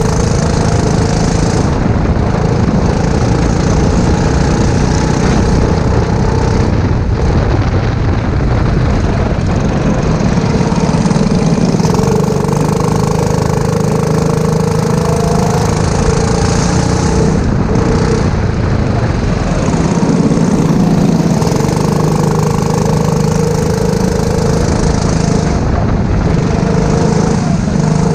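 Go-kart engine running hard throughout, its pitch dropping and then climbing again several times as the driver lifts off and accelerates through the corners.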